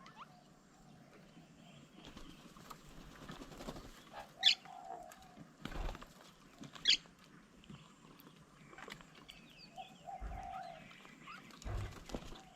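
Birds calling at an outdoor bird table: two sharp, high calls about two and a half seconds apart, a few short lower notes, and several soft low thumps.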